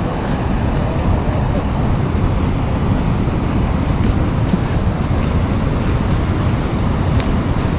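Steady rushing of a large waterfall, a loud even noise heaviest in the low end.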